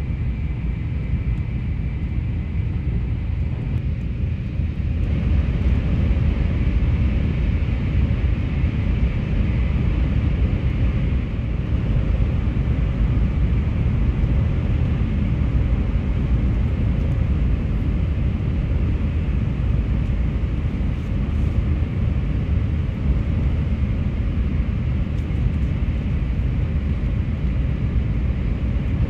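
Steady low rumble of a Shinkansen bullet train running, heard from inside the passenger car.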